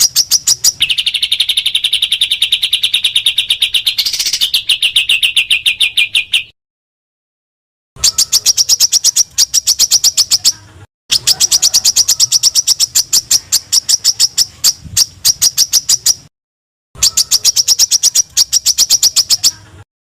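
Small songbird calls recorded for a masteran (birdsong training) track: fast runs of sharp, high repeated notes, with a buzzy trill for the first several seconds. The runs are cut apart by sudden dead-silent gaps where the recordings are spliced together.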